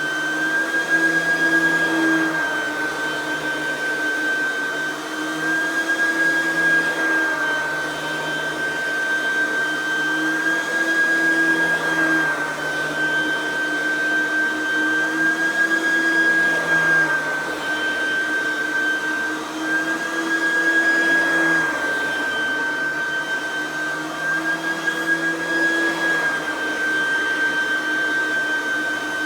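Oreck XL9100C lightweight upright vacuum running: its small 3.2-amp direct-air motor and fan give a loud, steady high whine. The pitch shifts slightly up and down every few seconds.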